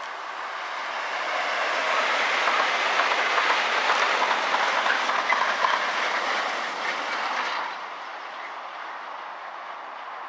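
Two Class 68 diesel locomotives hauling nuclear flask wagons pass at speed, the engines and wheels on the rails making a dense rushing noise. It builds over the first two seconds and drops off sharply about three quarters of the way through as the train goes by.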